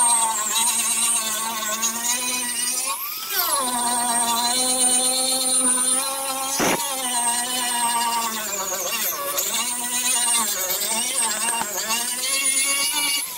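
Electric grinder with a sanding pad running against a boat hull, its motor whine wavering in pitch as it is pressed and moved. About three seconds in the pitch drops sharply and climbs back, and a short knock comes near the middle.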